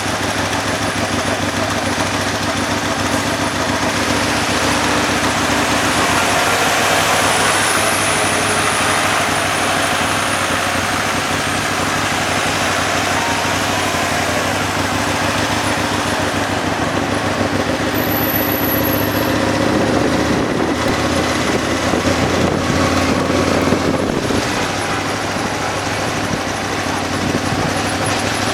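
A motorcycle engine running as the bike rides through city traffic, over a steady rush of road noise.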